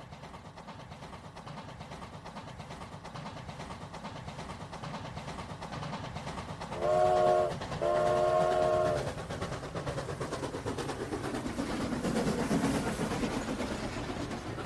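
Train running with rhythmic wheel clatter that grows louder, and its horn sounding twice about seven seconds in: a short blast, then a longer one.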